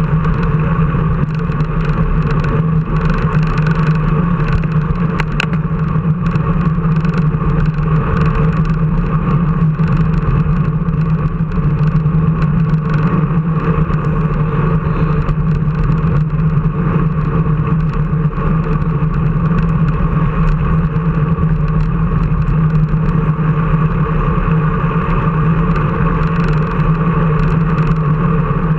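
Steady engine drone with a low hum, held at a constant speed and level, without revving.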